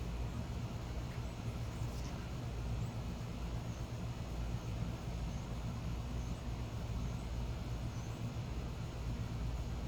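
Steady low background rumble, with a few faint, short high-pitched chirps from small birds about every second in the middle.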